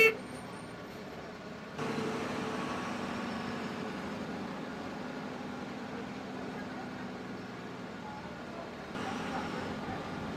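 Bus engine and road noise heard from inside the cabin of a KSRTC bus, a steady drone that steps up suddenly about two seconds in and again near the end. A brief loud pitched blip sounds right at the start.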